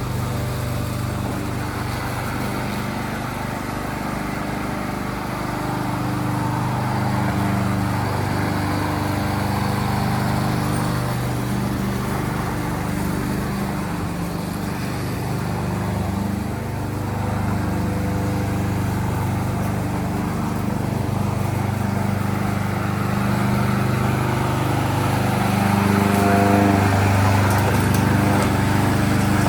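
Yardworks front-wheel-drive push lawnmower's engine running steadily while mowing grass, its pitch dipping and recovering slightly now and then, and a little louder near the end.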